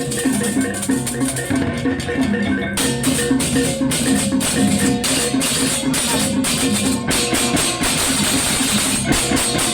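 Balinese baleganjur gamelan ensemble playing: gong-chime tones and drums under dense clashing cymbals. The cymbals grow fuller from about three seconds in.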